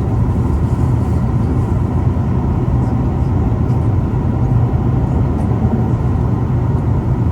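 Steady cabin noise of a Boeing 737 MAX 8 in flight: a constant low rumble of its CFM LEAP-1B engines and the airflow, with faint steady whining tones above it.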